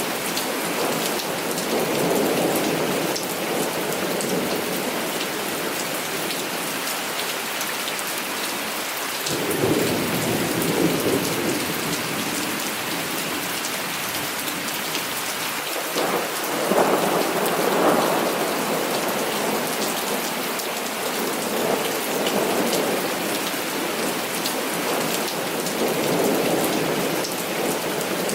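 Heavy rain falling steadily, with rolling thunder rumbling over it; two stronger rolls of thunder break in suddenly, about a third of the way in and just past halfway.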